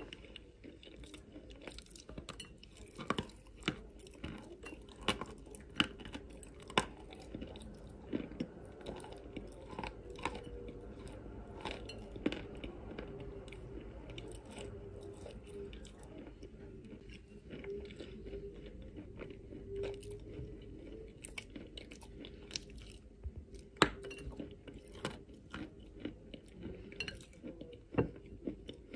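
Close-up chewing of lumps of chalk: a run of irregular crisp crunches as the chalk is bitten and ground between the teeth, the sharpest crunch about three-quarters of the way through.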